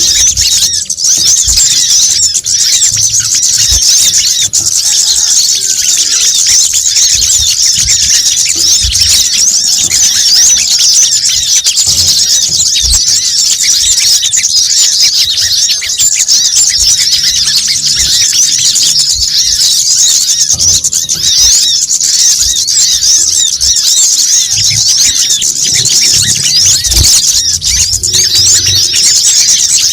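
Bird-lure recording: a dense, loud, unbroken chorus of rapid high-pitched chattering and squeaking notes from small birds, with sunbirds such as the kolibri kelapa (brown-throated sunbird) calling excitedly among them.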